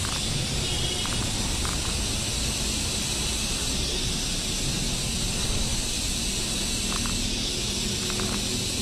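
Steady outdoor background hiss, with a few faint short ticks scattered through it.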